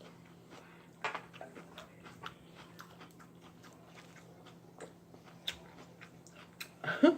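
Close-up eating sounds: chewing and wet mouth clicks and smacks while eating KFC fried chicken, with a louder smack about a second in and a short hum-like vocal sound near the end.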